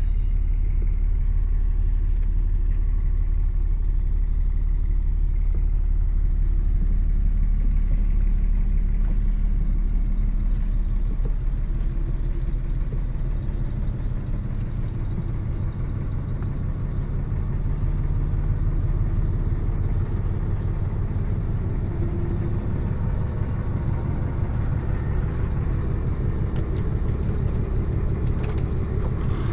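Scania diesel engine of a Marcopolo G6 coach running with a steady low rumble, its pitch shifting a little in the second half.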